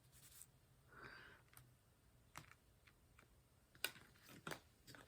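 Faint, irregular light clicks and taps, about eight over the second half, of a diamond painting pen picking up and pressing resin drills onto the sticky canvas.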